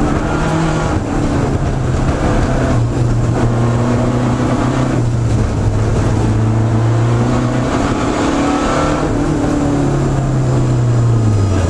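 Lancia Delta rally car's engine under hard driving, heard from inside the cabin, its pitch rising and falling with several short breaks as the revs drop.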